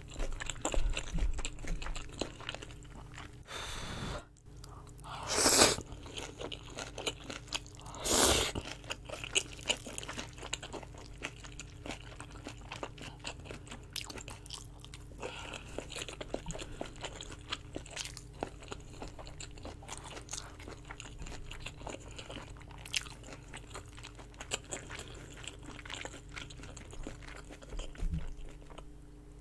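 Close-miked chewing and biting of braised kimchi rolled around pork belly, with steady crunching of the cabbage leaves. A few louder, noisier mouth sounds stand out about four, five and a half, and eight seconds in.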